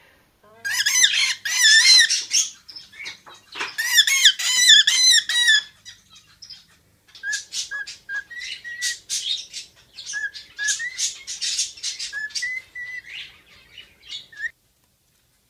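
Parrot calling: two loud bouts of warbling, wavering calls, then a quicker run of short chirping notes that stops abruptly near the end.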